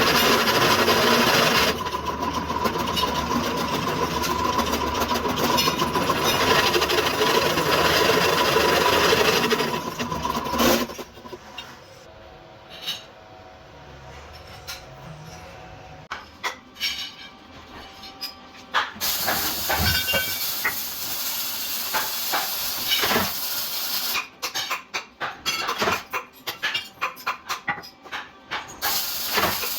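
Workshop metalworking on motorcycle exhaust header pipe: a steady hissing machine noise with a faint whine for about ten seconds, then scattered clicks and knocks. The hiss returns, breaking into rapid on-and-off bursts near the end.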